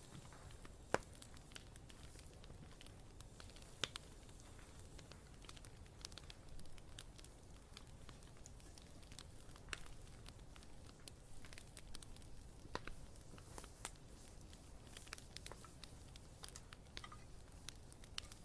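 Wood campfire crackling: irregular sharp pops and snaps over a faint, steady low hiss of the burning fire. The two loudest pops come about one and four seconds in.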